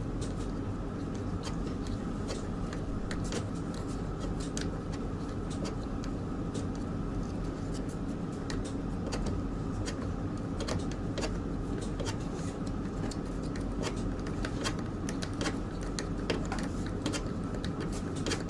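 Gorenje tumble dryer running: a steady motor and fan hum with many irregular light clicks and ticks throughout.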